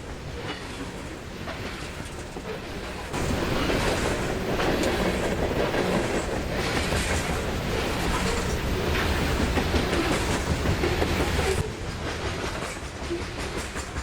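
Freight train rolling past, its wheels clacking over the rail joints. The sound jumps abruptly louder about three seconds in and drops back just as suddenly near the end.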